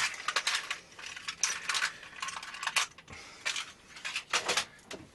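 Metal tools and parts clinking and clattering against each other in a series of short, irregular clicks: rummaging through workshop gear to find a drill chuck.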